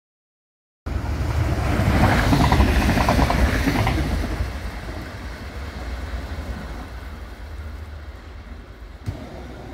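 Arriva Stadler WINK express train passing through the station at speed without stopping: a loud rush of wheels and air that cuts in about a second in, peaks over the next few seconds and fades as the train draws away. Wind buffets the microphone in the train's slipstream.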